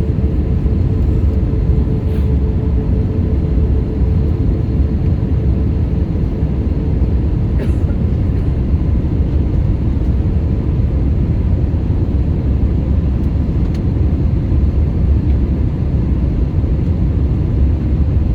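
Airliner cabin noise in flight: a steady low rumble of engines and airflow with a faint constant hum over it.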